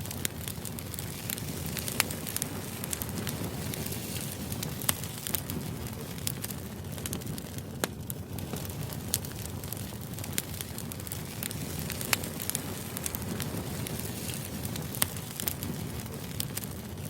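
Steady low rushing background noise with scattered sharp pops and crackles every second or few seconds.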